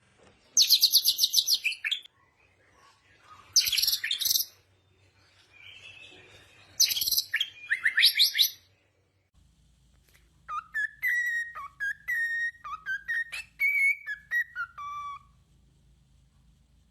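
Songbirds singing: three bursts of high, rapid trilled song in the first half, then, after a change in background, a different bird's song of clear whistled notes that ends on a falling note.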